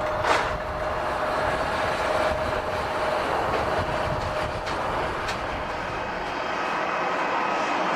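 Jet airliner engines running: a steady rushing noise with a thin whine, and a short sharp sound just after the start.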